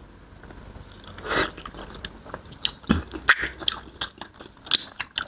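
A person chewing and biting food close to the microphone, with irregular mouth clicks and a few crunchy bites, the loudest in the second half.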